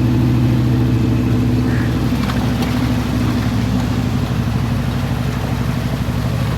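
Truck engine running at a steady speed, its note steady with no revving, growing somewhat quieter partway through.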